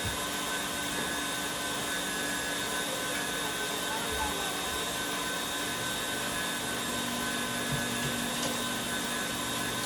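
Electric kitchen mixer running steadily, its motor note shifting slightly about six seconds in.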